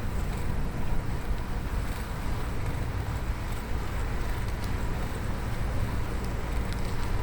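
Steady low rumble of wind on the microphones and a bicycle rolling on the road while riding, with a few faint, brief ticks.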